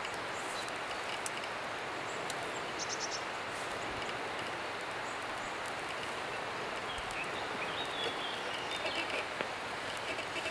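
Steady rushing outdoor noise, with a few faint short chirps and clicks over it.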